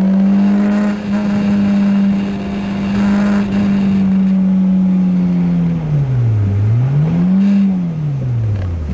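Renault Clio 2 RS's 2.0-litre four-cylinder engine held at a steady high pitch for about five seconds under power, then the revs drop, rise once briefly and drop again near the end.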